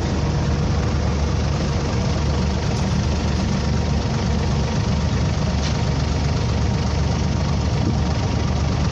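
A small creek-crossing ferry boat's engine running steadily under way: an even low drone with a steady hiss over it.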